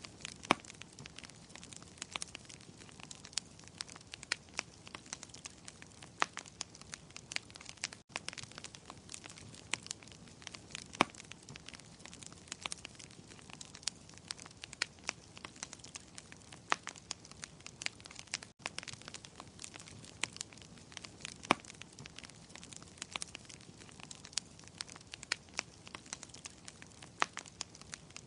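Wood fire crackling in a fireplace: a soft steady hiss with frequent sharp pops and snaps at irregular intervals, a few of them much louder than the rest.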